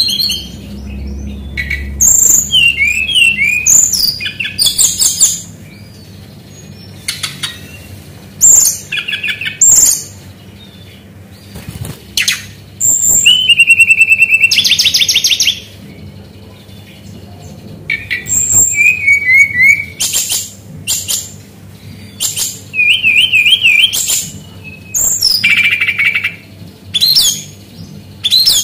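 Brown-chested jungle flycatcher singing a string of short, loud, varied phrases with brief pauses between them: fast trills, quick up-and-down whistles and one longer buzzing phrase. Its song is a mimic's, mixing in calls of other birds.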